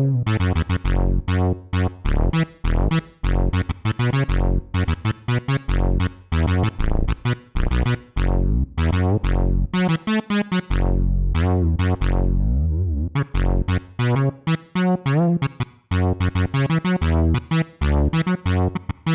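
ESI Xsynth keyboard synthesizer playing a fast sequence of short, bright, plucky notes in a quick rhythm, with a downward pitch sweep about two thirds of the way through.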